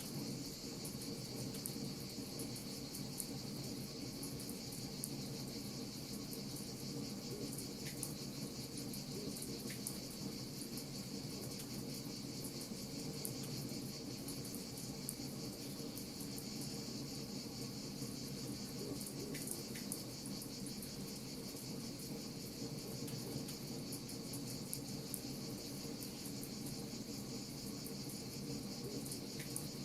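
Wood fire crackling: scattered short sharp pops over a constant high hiss and a steady low rumble.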